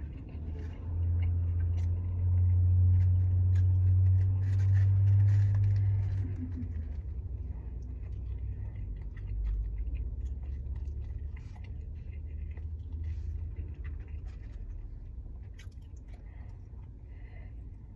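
A person chewing and biting into a fast-food burger, with small clicks and paper-wrapper rustles. Under it is a low rumble that is loudest for the first several seconds and then fades to a softer hum.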